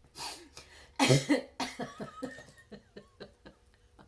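A woman coughing and laughing: a hard cough about a second in, then a run of short laughing breaths that fade out.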